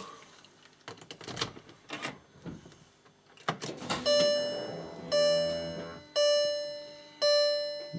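A key goes into the ignition lock with a few clicks and rattles. About halfway through, the car's instrument cluster starts sounding its electronic warning chime, a bell-like ding repeated about once a second, each ding fading away.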